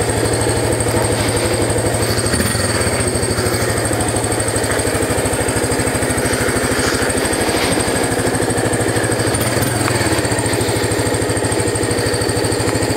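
Yamaha SR250's single-cylinder four-stroke engine idling steadily after a cold start, running smoothly even though the choke has not been pulled out.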